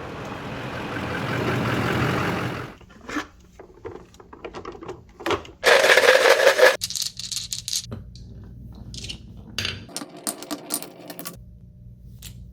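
Glass marbles rolling along a plastic rain-gutter track, a rising rolling rush that stops sharply, followed by scattered clicks and knocks as marbles strike the track. About six seconds in there is a loud clattering rush lasting about a second.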